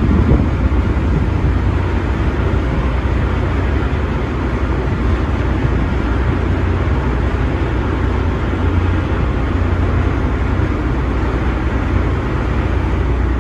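Ferry's engines running with a steady, loud low rumble as she comes into port.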